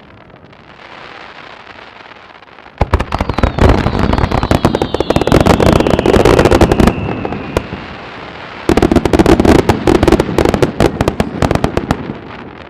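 Fireworks going off in two rapid volleys of cracks and bangs, with a lull between them. During the first volley a high whistle falls slowly in pitch.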